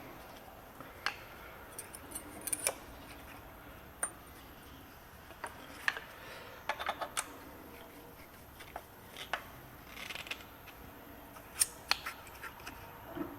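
Scattered sharp clicks and light metallic clinks at irregular intervals, some in quick little clusters, as hand tools and small metal engine parts are handled.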